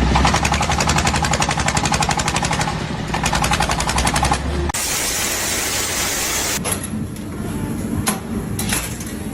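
A power tool hammering rapidly and evenly for about four and a half seconds, like a jackhammer, then stopping abruptly. A steady hiss follows, then quieter sounds with a few sharp clicks near the end.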